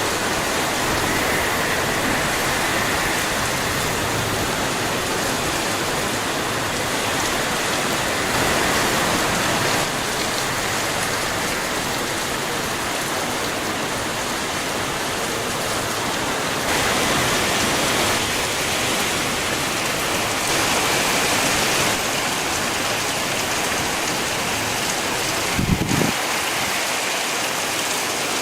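Typhoon rain and wind: a steady, heavy rush of rain that swells louder in gusts. A single short knock sounds near the end.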